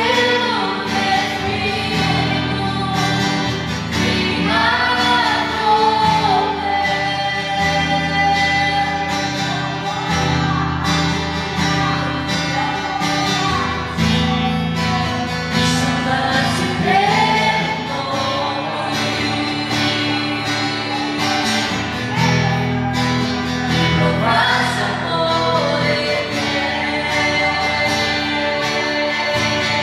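Gospel worship song: singing over a steady instrumental accompaniment.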